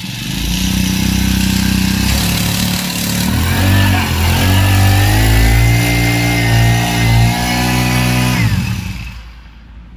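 A freshly repaired four-stroke engine running. It idles, then revs up about three and a half seconds in, holds the higher speed, and stops near the end.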